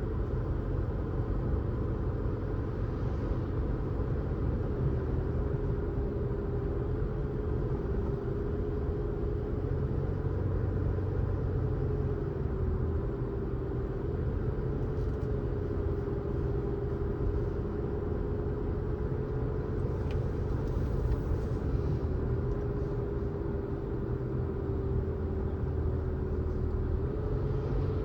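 Car driving on the road: a steady low road rumble with a constant engine drone whose pitch dips and rises slightly a few times.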